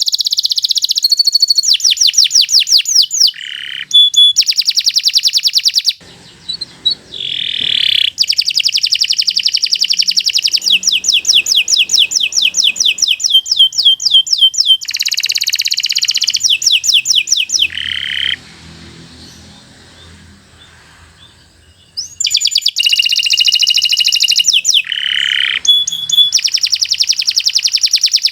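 Domestic canary singing, long runs of fast high trills and rapidly repeated notes, with a short break about six seconds in and a longer pause for a few seconds past the middle.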